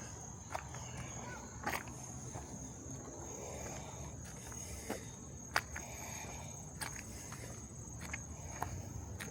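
Footsteps on a park trail, irregular sharp steps and scuffs, over the steady high, unbroken drone of insects chirping in the late-summer dusk.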